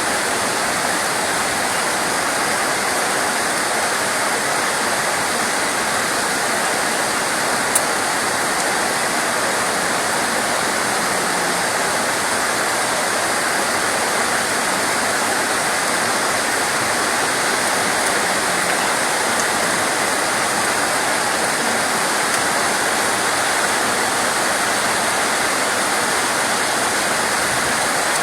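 Steady rain, an even unbroken hiss with no let-up. A single sharp click comes about eight seconds in.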